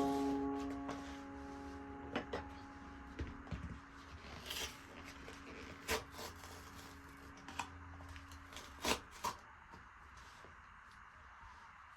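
A few scattered light knocks and clicks of things being handled. Held notes of background music fade away over the first several seconds.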